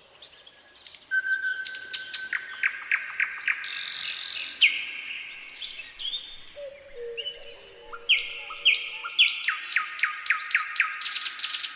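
Nightingale singing a varied song: a held whistle, then a run of rapid repeated notes speeding up, a harsh buzzy note, some lower notes, and near the end a fast series of sharp down-slurred notes.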